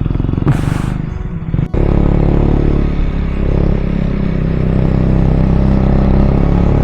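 KTM Duke 250's single-cylinder engine running steadily as the motorcycle is ridden along. There is a short rush of wind noise about half a second in. Just under two seconds in the sound cuts abruptly, and the engine comes back louder and steady.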